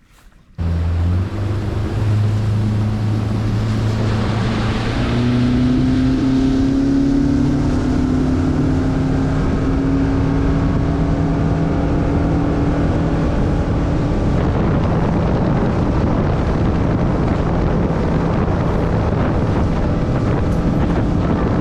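Motorboat engine running under way, its pitch rising for a few seconds and then holding steady, with wind rushing over the microphone. It comes in abruptly about half a second in.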